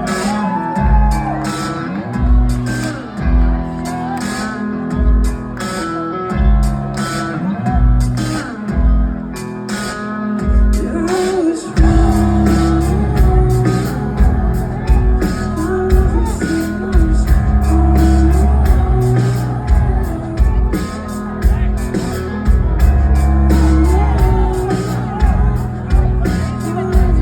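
Live rock band playing with a singer: a sparse verse over a steady kick drum, then about twelve seconds in the full band comes in louder with heavy bass and guitars.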